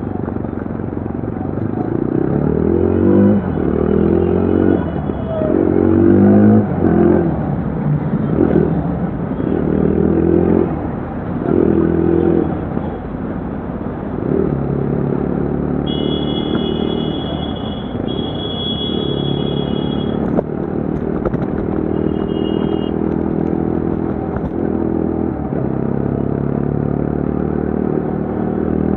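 2025 Yezdi Adventure's single-cylinder engine running through its slightly modified silencer while riding, rising in pitch and dropping back several times in the first half as it pulls through the gears, then running steadier. Short high steady tones sound a few times in the second half.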